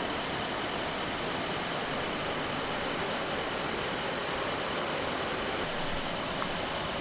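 Steady rush of a fast-flowing mountain valley stream, its current strong from rainy-season water.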